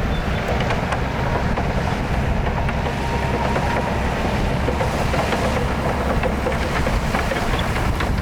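Heavy diesel earthmoving machinery running steadily, a low rumble with a few faint clicks and rattles.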